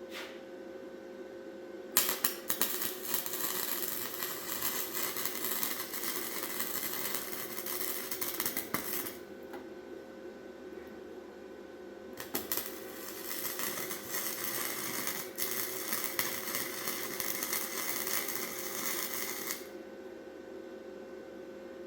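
Two long bursts of a metalworking tool, about seven seconds each with a pause between, harsh and noisy, over a steady shop hum.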